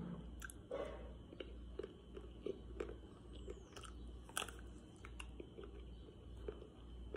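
Biting and chewing a Magnum ice cream bar close to the microphone: small irregular crunches and clicks as the chocolate coating cracks, with wet chewing between them.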